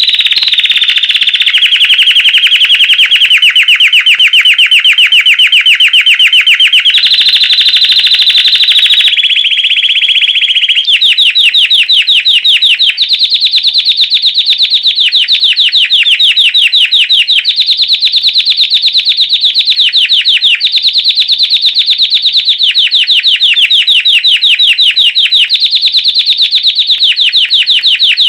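Belgian canary singing the classic bell-like 'campainha' song: long, loud runs of rapid repeated notes, the pitch stepping up or down every few seconds. The song cuts off suddenly at the end.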